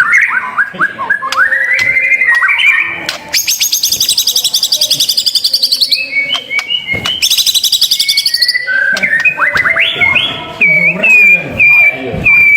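White-rumped shama singing a varied, continuous song of rising slurred notes, fast high-pitched rattling trills, and clear level whistles repeated several times near the end.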